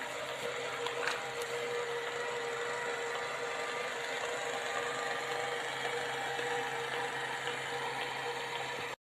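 Steady whirring, motor-like noise with a constant hum underneath, holding an even level and cutting off abruptly near the end.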